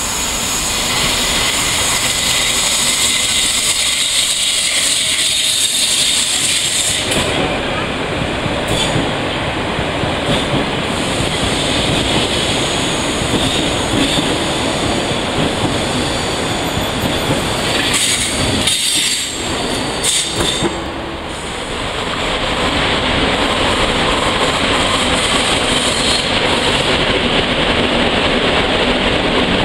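PKP Intercity ED160 (Stadler FLIRT) electric multiple unit running into the station and past the platform; its noise grows much louder about seven seconds in. After a short break about twenty seconds in, a second train is heard: coaches hauled by an EU07 electric locomotive pulling in.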